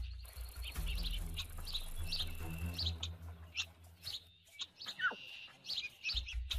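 Birds chirping in short calls repeated about every half second, with one falling whistle about five seconds in, over a low steady hum that drops out briefly near the end.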